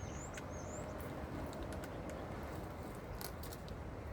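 Faint clicks and light rattles of a small metal Allen key being handled and fitted into its holder on the pole saw's handle, over a low steady background rumble. Two short high rising chirps come in the first second.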